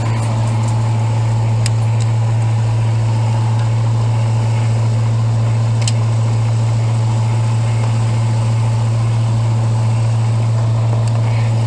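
Chevy 350 small-block V8 in a 1978 Chevy 1-ton 4x4 idling steadily, a loud, even low hum with no change in speed.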